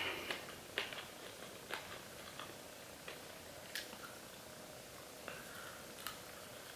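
Quiet eating of a fried chicken wing: faint chewing with small sharp mouth clicks, spaced irregularly about a second apart.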